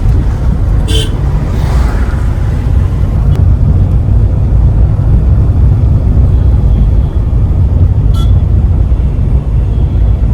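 Car driving along a road, a loud steady low rumble of road and wind noise, with two brief high-pitched chirps, about a second in and again near the end.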